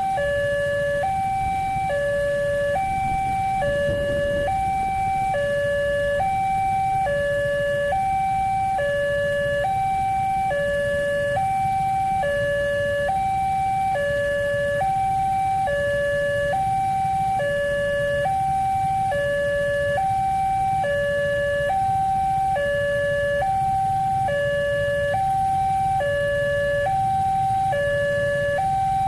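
Railway level-crossing warning alarm sounding, an electronic two-tone signal that alternates steadily between a higher and a lower tone about every second, with a low rumble underneath.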